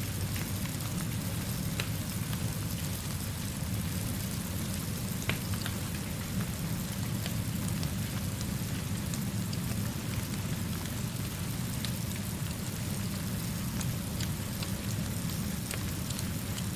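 Steady rainfall with a low, even rumble beneath it and scattered small ticks and crackles, one sharper about five seconds in.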